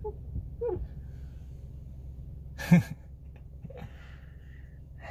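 A man's short breathy vocal sounds: brief sighs, then one sharp gasp-like breath about two and a half seconds in and a softer one a second later, over a steady low hum inside a small car.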